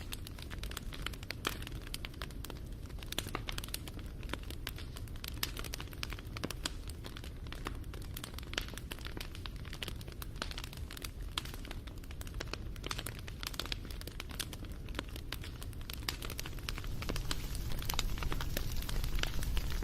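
Wood fire crackling, with many small sharp pops over a low rumble of burning; the rumble grows louder over the last few seconds.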